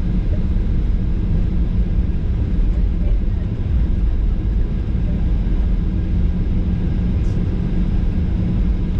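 Steady low rumble of a Boeing 737-800's CFM56 engines and air systems, heard inside the passenger cabin while the aircraft is on the ground after landing.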